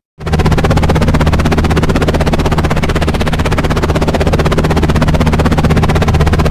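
Helicopter running steadily with a fast, even chop of the rotor blades over a low engine hum, starting abruptly just after a moment of silence.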